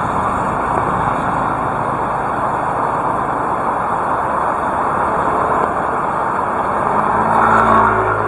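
Heavy rain pouring steadily in a dense, even hiss. About seven seconds in, a motor vehicle's engine hum swells up over the rain and then fades.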